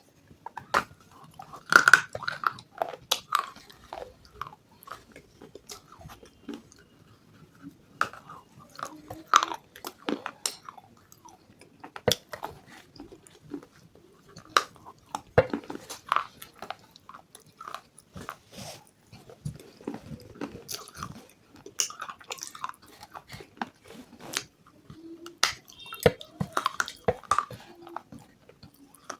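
A person biting and chewing crunchy food close to the microphone, with sharp, irregular crunches throughout.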